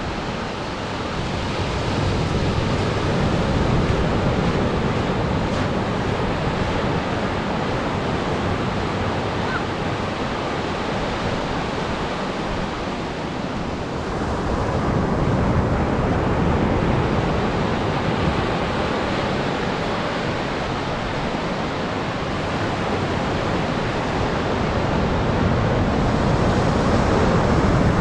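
Atlantic surf breaking and washing up a sandy beach, a steady roar that swells louder with each wave, three times.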